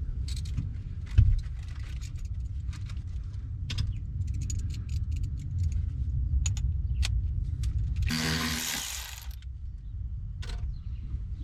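Hand tools and metal parts being handled: scattered light clicks and clinks, with a knock about a second in and a harsh burst of noise lasting about a second near the end, over a steady low rumble.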